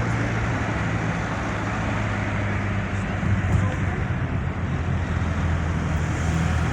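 Steady road traffic noise with a low wind rumble on the microphone.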